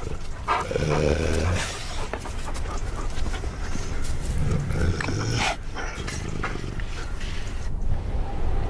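Iberian wolves growling in a dominance confrontation over pack leadership, with low rumbling growls about a second in and again around the middle, among short sharp sounds.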